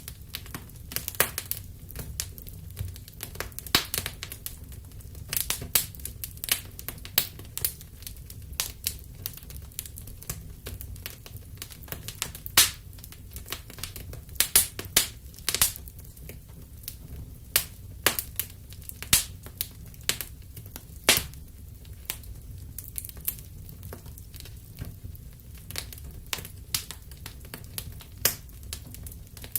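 Wood fire in a fireplace crackling, with irregular sharp pops and snaps at uneven intervals over a steady low rumble.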